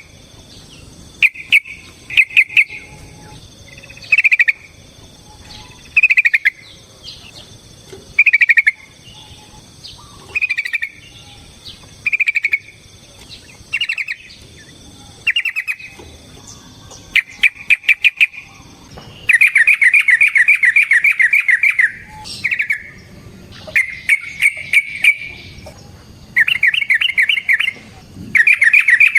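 Yellow-vented bulbul calling: short bubbly phrases about every two seconds, then, a little past halfway, longer rapid chattering runs of the same notes. This is the excited, drawn-out 'ropel' calling.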